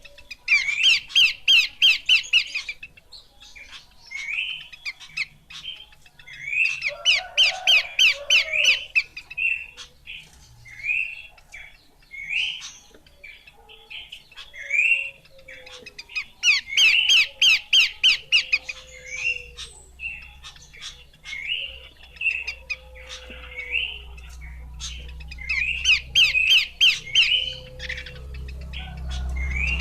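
Horsfield's babbler (pelanduk semak) calling: four bursts of rapid, repeated notes, each about two seconds long, with single rising notes about once a second between them.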